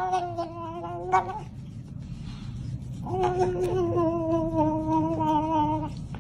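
A cat yowling in two long, drawn-out, wavering calls, the first fading out about a second in and the second starting about halfway and holding for roughly three seconds.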